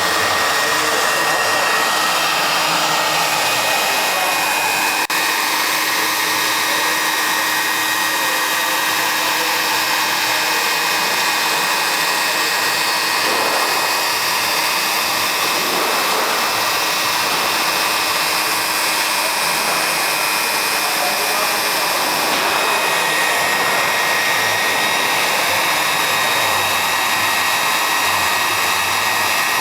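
Robotic polyethylene plastic welder running: a steady, even blowing hiss with a thin, unchanging high whine.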